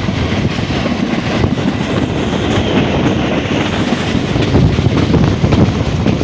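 Passenger train running along the track: a loud, steady rumble and rattle of the carriages' wheels on the rails.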